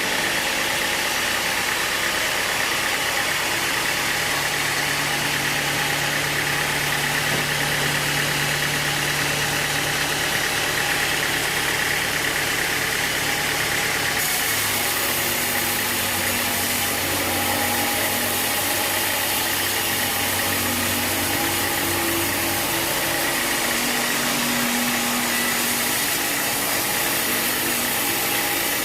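Sawmill machinery running steadily, an engine hum under a constant noise, with the hum settling to a lower pitch about halfway through.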